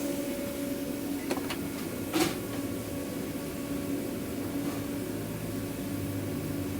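Steady hum of food-truck kitchen equipment running, with a few sharp metal clinks of utensils, the loudest about two seconds in.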